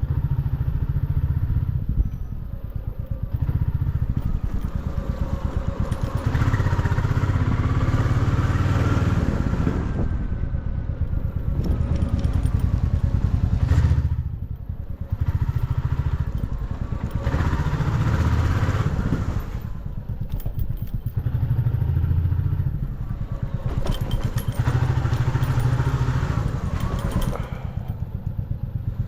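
Motorcycle engine running under way with a rapid low exhaust beat. Its pitch swells up and falls back several times as the rider accelerates and eases off.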